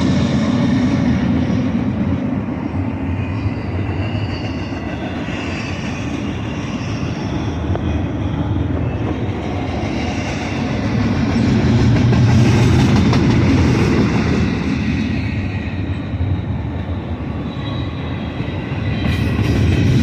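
Union Pacific freight train passing at speed: a steady rumble and clatter of freight cars on the rails, swelling louder about halfway through and again near the end.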